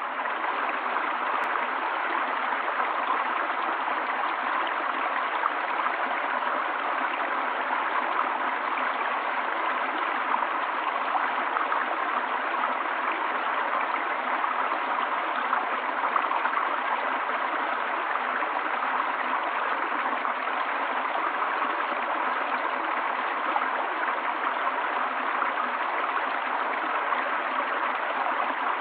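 Running water of a stream, a steady, even rushing with no breaks.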